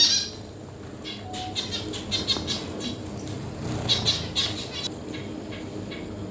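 Birds chattering in short bursts of rapid chirps, three or so times, over a steady low background.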